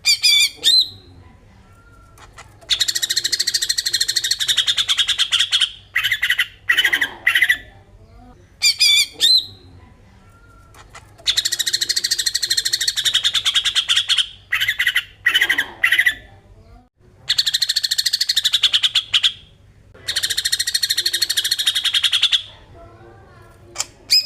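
Cucak ijo (green leafbird) singing its 'besetan' song. Four long, very fast buzzing trills of two to three seconds each alternate with short, sharp whistled notes and brief pauses.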